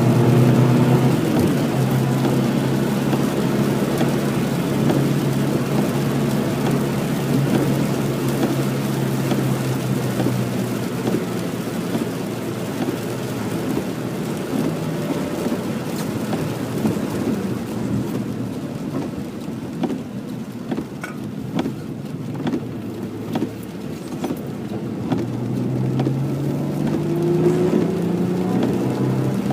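2011 Ford Mustang driven hard on a soaking wet track, with rain and tyre spray over the car's noise. The engine holds a steady note for the first third and then eases off. Through the middle, wet road hiss and rain dominate. Near the end the engine pitch climbs again under acceleration.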